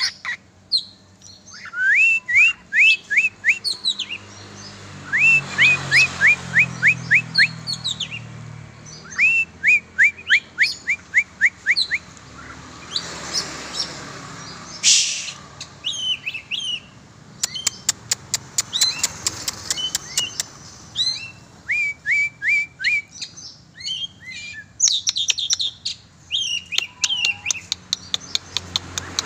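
Oriental magpie-robin singing: strings of quick, rising whistled notes, repeated in rapid runs. About halfway through there is a sharp loud click, soon followed by a quick rattle of ticks.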